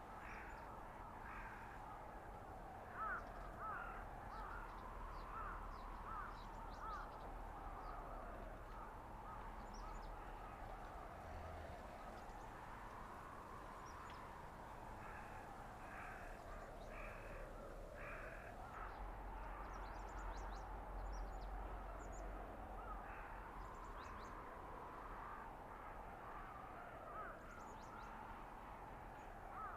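Blizzard wind howling through a winter forest, a faint whistle that slowly rises and falls in pitch over several seconds at a time, with a low rumble beneath. Clusters of short, harsh calls sound over the wind throughout.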